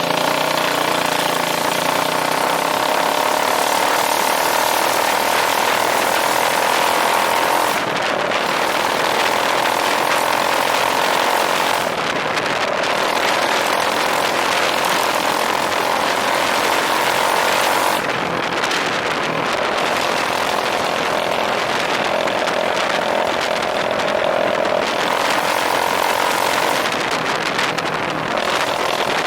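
Straight-piped 2009 Yamaha Majesty 400 scooter's single-cylinder engine running loud and continuous, with no muffler on the exhaust. Its tone shifts several times over a steady rushing hiss.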